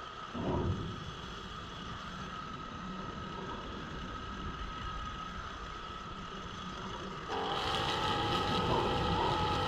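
Small petrol engine of yard power equipment running steadily, with a short low swell about half a second in; it turns louder and harsher about seven seconds in.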